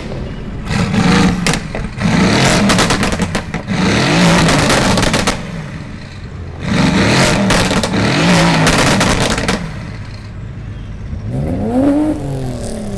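Several BMW performance car engines revved hard four times. Each rev rises and falls in pitch, and the louder revs carry rapid exhaust crackles and pops.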